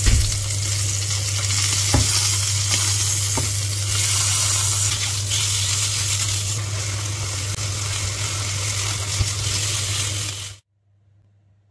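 Chicken breast sizzling as it fries in oil in a nonstick pan, with a steady low hum underneath and a few knocks of metal tongs against the pan. The sizzle cuts off suddenly near the end.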